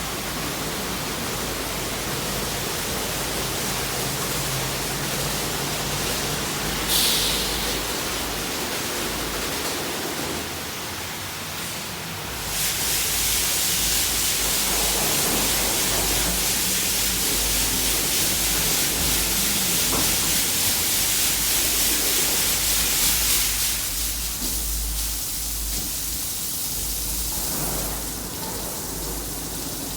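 Ryko SoftGloss Maxx 5 automatic car wash spraying water over a car, a steady rain-like hiss. It grows louder about twelve seconds in and eases off again after about twenty-three seconds.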